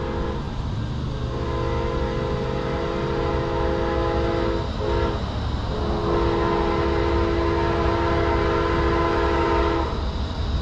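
Amtrak Crescent locomotive's multi-chime air horn blowing as the train approaches: a brief blast, a long one, a short one and a final long one, over the low rumble of the train.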